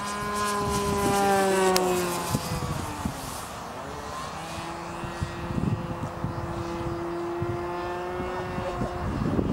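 Irvine 53 two-stroke glow engine of an RC pylon racer in flight, a high engine tone that falls in pitch over the first two seconds, fades, then comes back about halfway through and holds a steady pitch.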